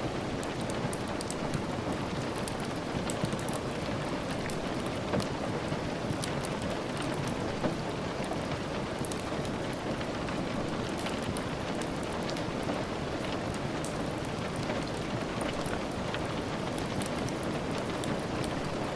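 Steady rain falling, an even wash of noise with many small sharp ticks scattered through it.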